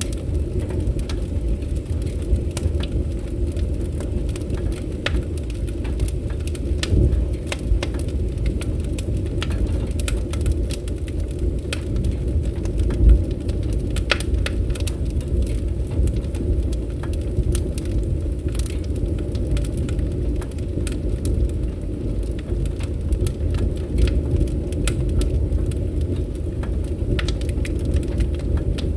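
Wood campfire burning, with a steady low rumble under scattered sharp crackles and pops.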